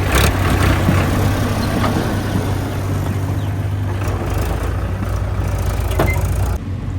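Heavy diesel engine running steadily with a low hum, a few sharp clanks over it; the sound drops off abruptly near the end.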